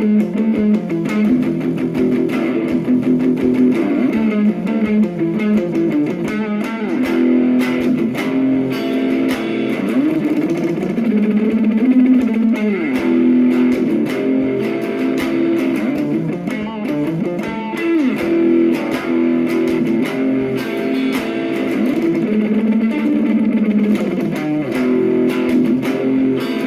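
Instrumental music led by guitar: slow plucked and sustained notes with occasional sliding pitch bends.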